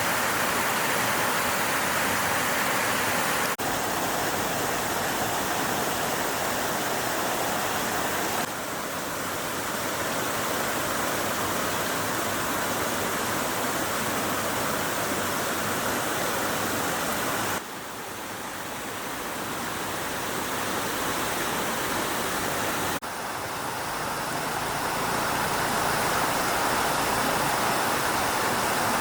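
Stream water rushing over rocks, a steady even noise; its level and tone jump abruptly four times.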